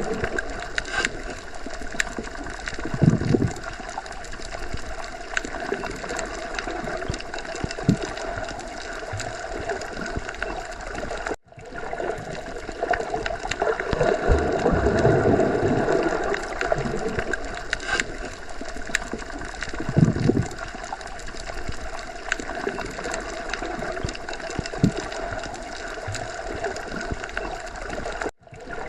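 Underwater sea ambience: a steady watery wash with irregular low gurgling and bubbling swells. It drops out for an instant twice, about eleven seconds in and near the end.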